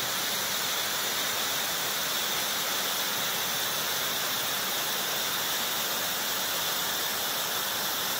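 Water rushing steadily in a constant hiss with no let-up.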